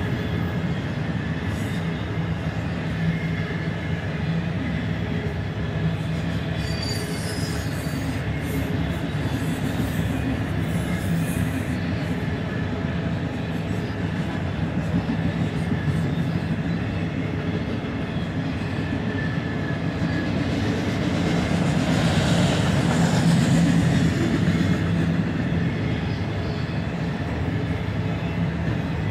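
Freight train of autorack cars rolling past: a steady rumble of steel wheels on rail, swelling louder a little past twenty seconds in.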